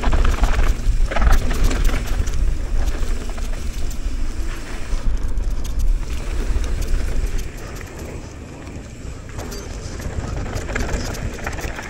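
Mountain bike descending a rough trail: wind buffeting a helmet chin-mounted microphone, with the tyres and bike rattling over bumps. It eases off about seven and a half seconds in.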